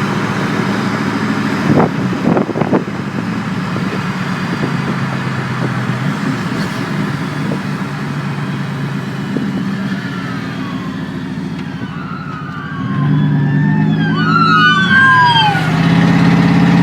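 Dodge Ram's 5.2 L (318) V8 running through straight pipes with no catalytic converters or mufflers, heard from inside the cab while driving. From about ten seconds in, a police siren wails, its pitch sweeping up and down, and the exhaust gets louder over the last few seconds.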